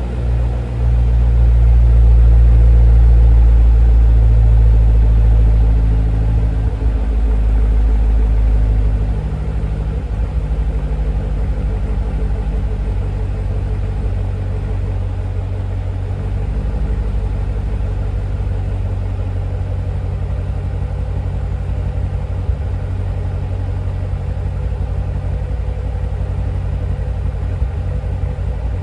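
A 2015 Corvette Stingray's 6.2-litre LT1 V8 running after a cold start. It runs loud for the first several seconds, steps down in level about seven and nine seconds in, then settles into a steady idle rumble.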